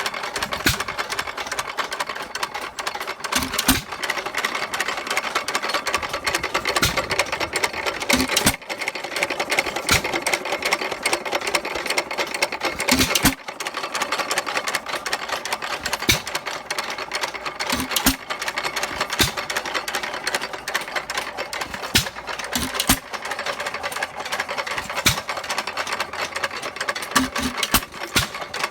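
A 1924 Associated Manufacturers 'Wonder' 2 hp single-cylinder hit-and-miss engine running: a fast, steady mechanical clatter, with a sharp knock every two to five seconds at uneven intervals.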